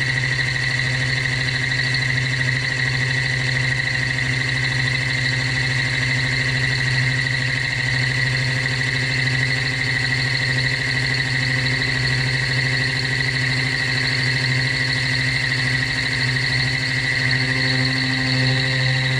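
Metalworking machine tool running steadily: a constant low hum with a steady high whine over it.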